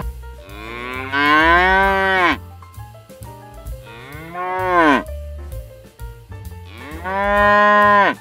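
An animal calling three times in long, drawn-out calls, each sliding up and then down in pitch, over soft background music.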